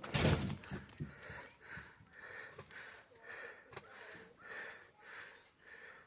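Footsteps crunching in deep snow at a steady walking pace, about two steps every second and a bit, after a louder scuff or bump at the very start.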